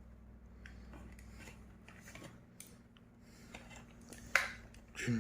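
Light scattered clicks and taps of small plastic toys being handled, with one sharper click a little over four seconds in.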